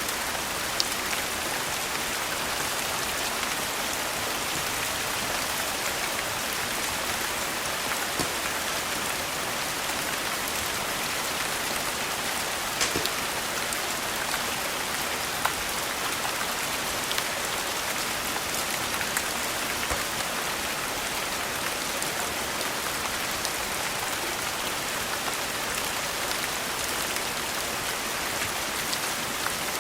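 Steady rain hissing without a break, with a few scattered sharp clicks and drips.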